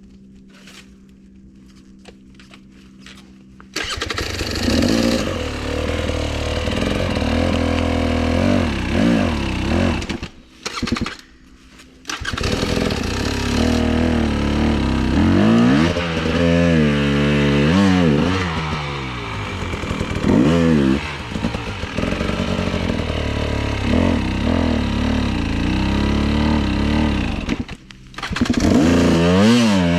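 Enduro motorcycle engine coming in suddenly about four seconds in, then running hard with revs repeatedly rising and falling. It drops out briefly about a third of the way through and again shortly before the end.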